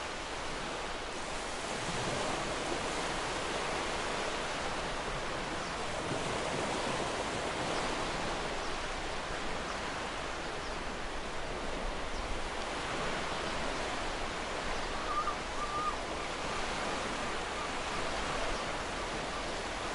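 Ocean surf: waves breaking and washing up a beach, a steady rushing hiss that swells and eases every few seconds.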